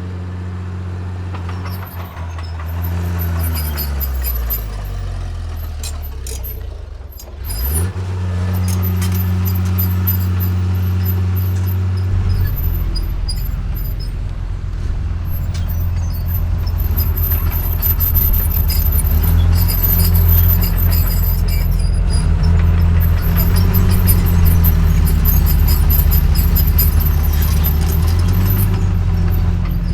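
Heavy diesel engine of earthmoving machinery running. Its pitch falls over several seconds and dips briefly about seven seconds in, then it runs steady, with a deeper, louder rumble from about twelve seconds in.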